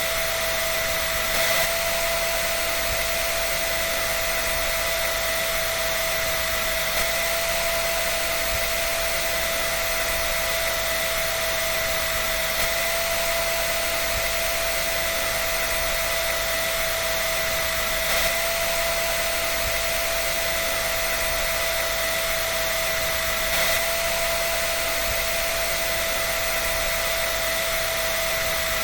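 A dryer running steadily: an even rush of blowing air with a steady whine over it, and a faint tick now and then.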